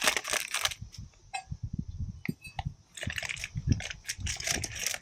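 Metal cookware clinking and knocking in a series of short sharp clicks. About three seconds in it turns into a denser run of crackly ticks.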